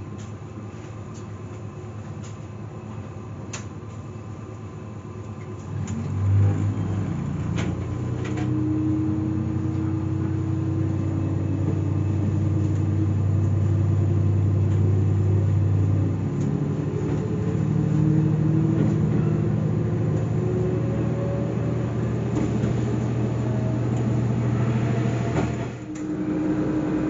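Diesel railcar engine running, quiet at first, then about six seconds in it opens up into a louder drone whose pitch climbs slowly as the train gathers speed. The drone drops back about ten seconds later and builds again, with a few sharp clicks in the first part.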